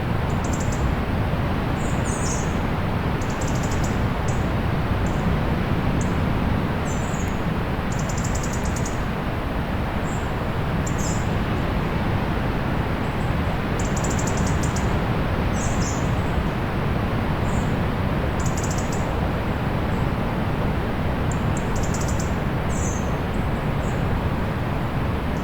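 Steady low rush of distant sea surf, with small birds chirping in short, high calls, roughly one a second and irregularly spaced.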